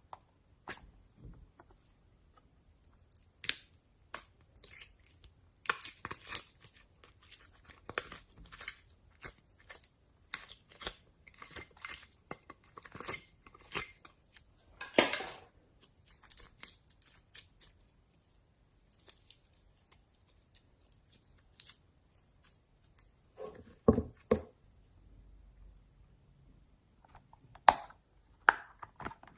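Slime being squished and stretched by hand, making irregular sticky crackles and pops, with a few louder snaps.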